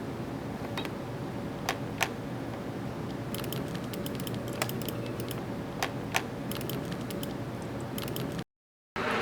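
Irregular sharp clicks, a few louder ones and a quick cluster about three and a half seconds in, over a steady electrical hum; the sound cuts off suddenly near the end.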